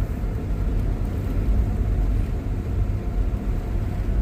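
Steady low rumble of a vehicle driving along an expressway: engine and tyre noise heard from inside the cabin.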